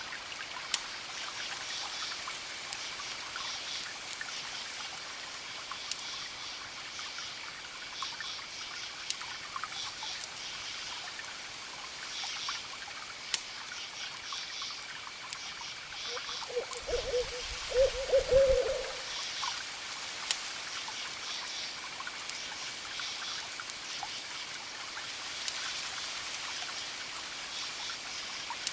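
An owl hooting a few times, a short run of low calls about two-thirds of the way through. Beneath it, crickets chirp in repeated pulses, a campfire crackles with scattered sharp pops, and a soft hiss of distant waves runs on.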